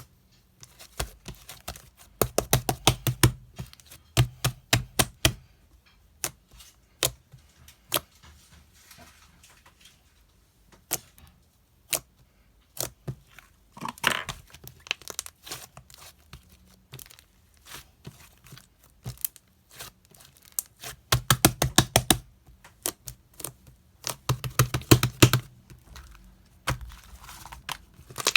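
Sharp clicks and taps of handled objects, coming in quick clusters a few times, with a short rustle about halfway through.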